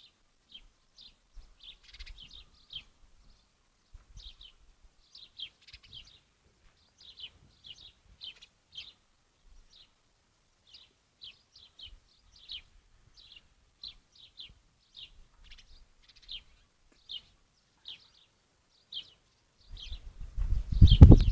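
Short, high bird chirps repeated one or two times a second. Near the end comes a loud, low thudding rumble.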